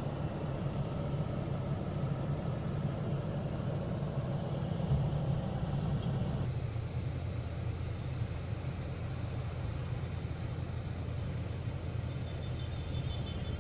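Heavy diesel truck engine running steadily with a deep rumble. About six and a half seconds in, the sound turns abruptly duller.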